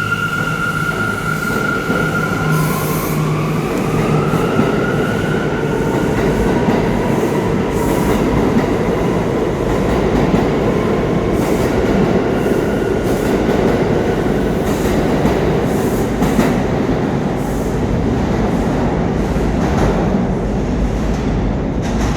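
New York City Subway train on the rails: a high whine that rises in pitch in the first few seconds, then a loud, steady rumble of wheels on track.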